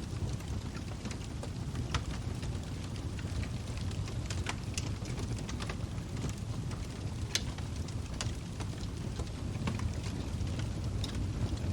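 Log fire burning with a steady low rumble, and irregular sharp crackles and pops from the burning wood, a few of them louder than the rest.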